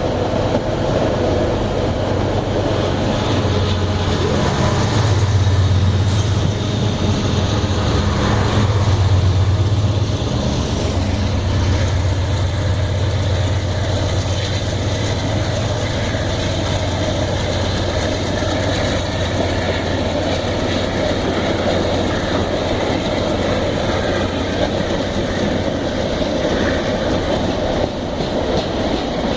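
Iron-ore freight train rolling past, a continuous rumble and clatter of wagon wheels on the rails under a steady low hum. The hum swells between about five and ten seconds in.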